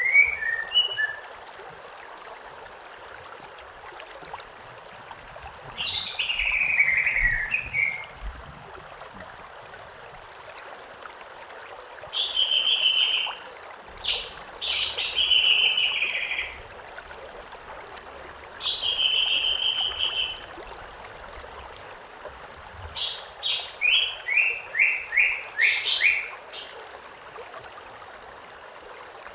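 Songbirds singing short phrases every few seconds over a steadily running stream. Near the end one phrase is a quick run of about a dozen repeated notes.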